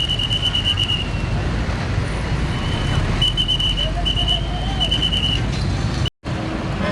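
Heavy road traffic passing by, a steady low rumble of truck and bus engines and tyres, with a high whistling tone that comes and goes. The sound cuts out completely for a moment about six seconds in.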